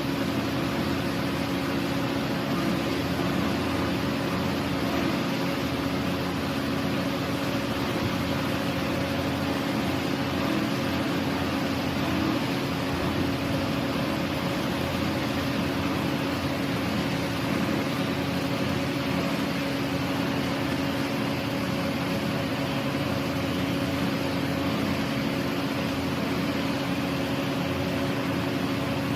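CNC plasma cutting machine running: a steady hiss with a constant hum, unchanging throughout.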